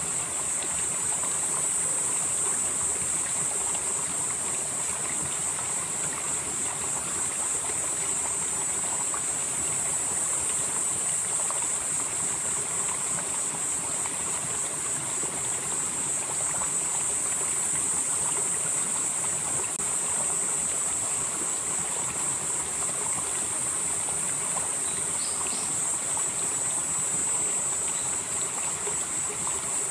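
A valley stream flowing steadily, with a continuous high-pitched insect chorus over the rush of water.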